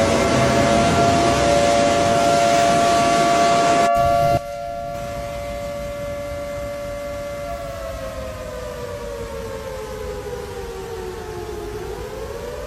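Outdoor warning siren wailing on two pitches at once: it winds up and holds, then slowly falls and winds up again near the end. A heavy noisy wash beneath it drops away about four seconds in.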